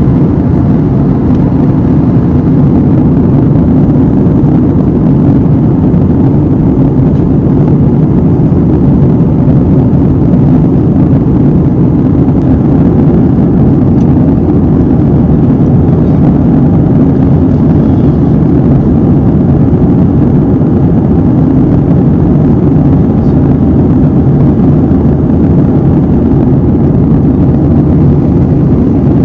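Airliner cabin noise heard from a window seat: the steady, low rushing hum of jet engines and airflow past the fuselage in flight, even and unchanging throughout.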